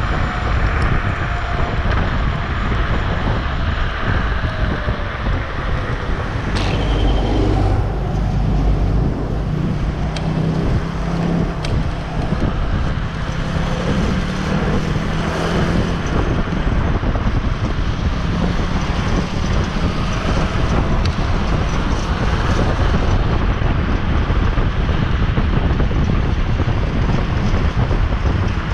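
Steady wind and road noise from a vehicle moving at speed, with wind buffeting the microphone. A faint pitched hum, like a motor, shows about midway.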